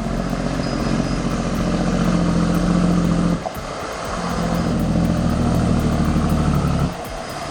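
A heavy engine running loudly at a steady pitch in two stretches, broken off sharply about three and a half seconds in and again near the end.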